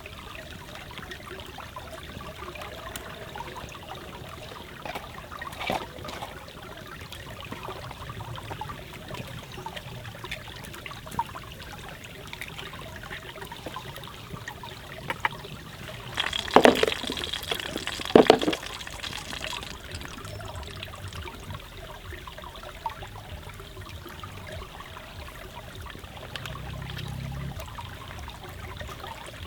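Forest stream trickling steadily, with scattered sharp crackles and two louder knocks with a brief ring about two-thirds of the way through.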